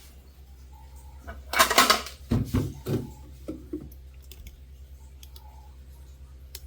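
Drinks being handled and set down in a refrigerator: a short scraping rustle, then three or four knocks as the containers land on the shelf, then a few lighter clicks.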